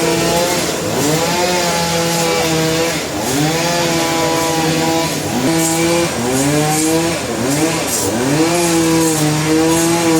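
Motor-driven sawmill saw running under load, its pitch dropping sharply and recovering every second or two as it bogs in the cut, over a steadier lower engine hum.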